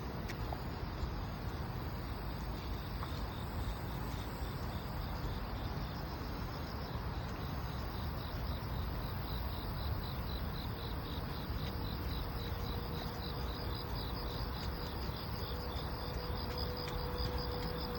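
Crickets and other grass insects chirping on a summer night in a fast, even pulsing rhythm, growing stronger in the second half, over a steady low background rumble.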